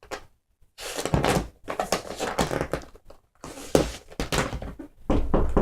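An irregular run of dull thuds and rustling knocks, as of things being handled and bumped around, in a small room.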